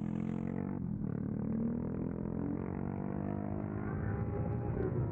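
Kawasaki Versys 300's parallel-twin engine running hard at speed, dipping briefly about a second in, then revs climbing steadily as it pulls again.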